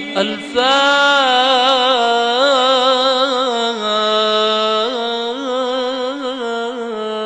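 A male reciter's voice chanting one long, ornamented melismatic phrase in the style of Quranic recitation and supplication, with small wavering turns on the held notes. The pitch steps down about halfway through.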